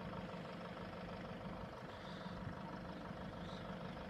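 Engines of queued road vehicles idling steadily.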